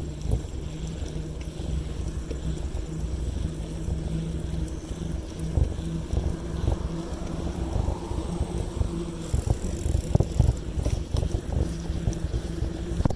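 Wind buffeting the microphone over a steady low rumble of riding, with scattered knocks and rattles, denser in the second half.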